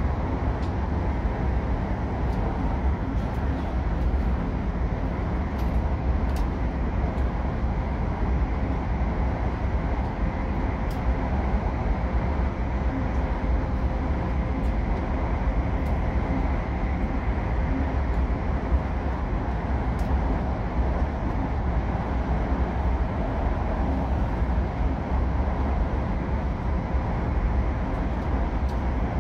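Steady low rumble of an E5 series Shinkansen running, heard inside the passenger car, with a faint steady hum over it.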